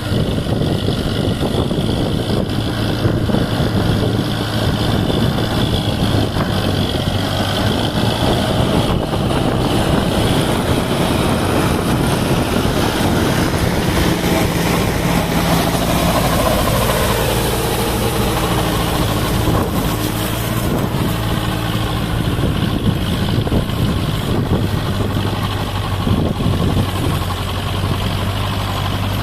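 Sonalika MM-45 tractor's diesel engine running steadily while driving a rotavator. A whine falls in pitch about halfway through.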